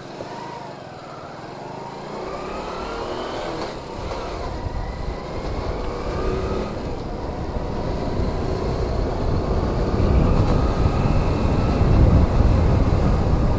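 Honda Pridor 100cc single-cylinder four-stroke motorcycle engine pulling away and accelerating as the bike is ridden. It gets steadily louder, with a rising whine in the first few seconds.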